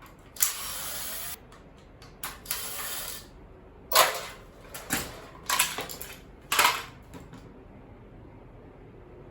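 Two short bursts of a steady hiss-like whirr, each about a second long, followed by four sharp knocks and clatters of hard parts being handled while a small appliance is taken apart.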